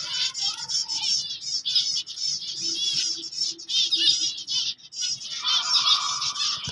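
A flock of finches chirping together: a dense, overlapping stream of rapid high chirps that breaks off briefly about five seconds in, then resumes.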